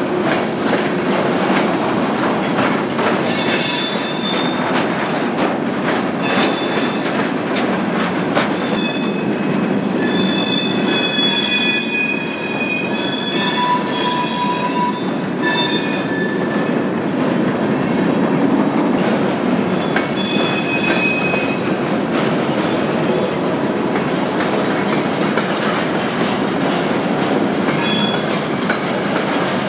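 Freight cars rolling past, a steady rumble of wheels over the rails with clicking at the joints and high-pitched wheel flange squeal that comes and goes, loudest for several seconds in the middle.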